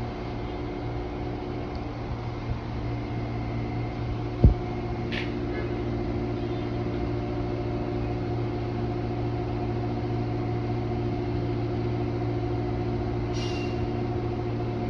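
A standing Amtrak passenger train hums steadily at idle, a drone with several held tones. One sharp knock comes about four and a half seconds in.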